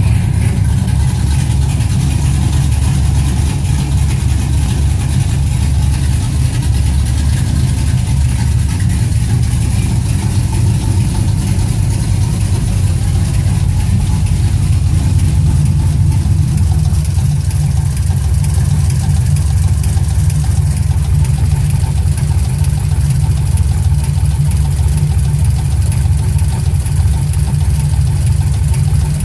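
2006 Chevrolet TrailBlazer SS's 6.0-litre LS2 V8 idling steadily with an engine knock.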